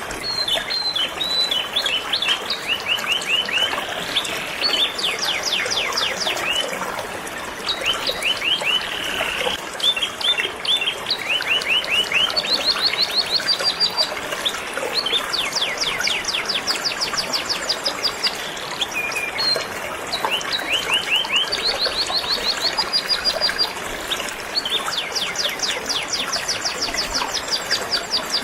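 Canary singing continuously in fast trills of rapidly repeated high notes, over the steady rush of a flowing river.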